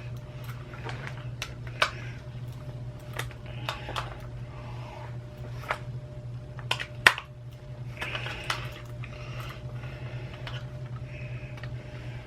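Small hand tool clicking and scraping against the plastic parts of a computer mouse being taken apart, with a handful of sharp clicks (the loudest about seven seconds in) over a steady low hum.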